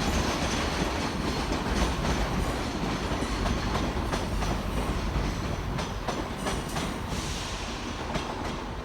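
Class 334 electric multiple unit arriving at a platform, its wheels clicking over rail joints and points under a steady rumble. The sound slowly dies away.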